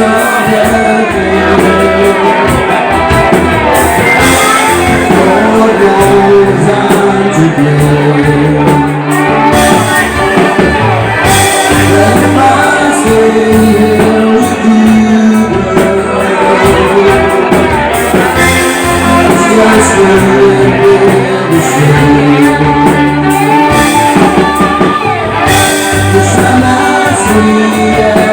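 Live rock band performing a song, with a singer's voice over the band.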